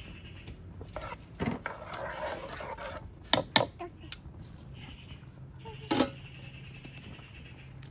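Kitchenware clinking and knocking: a few scattered sharp clicks, the loudest two in quick succession near the middle and another about six seconds in, over a faint steady hum.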